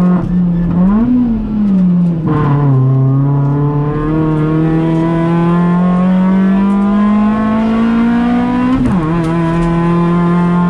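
Kia rally car's engine heard from inside the cabin. About a second in its pitch briefly rises and falls, and around two seconds in it drops. It then climbs steadily for about six seconds as the car accelerates, falls sharply on a gear change near the end, and holds steady.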